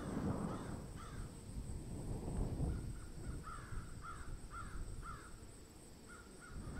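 A bird calling in a run of short, arched calls, about two a second through the middle, over a low rumble.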